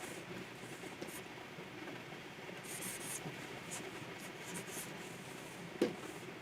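Stylus nib scratching and rubbing across a Wacom Pro 24 tablet's surface in short drawing strokes, with one sharp tap near the end.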